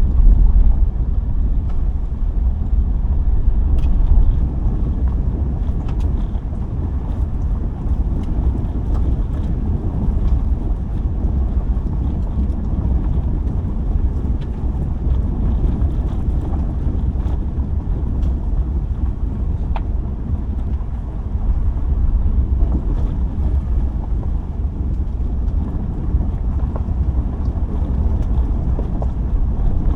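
Subaru driving on a gravel road: a steady low rumble of tyres on gravel, with small stones ticking now and then.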